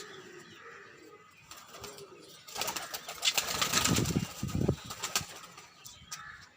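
Pigeons cooing in low, repeated notes. Then, from about two and a half seconds in, a loud flurry of wing-flapping lasts a little over two seconds before fading back to quieter cooing.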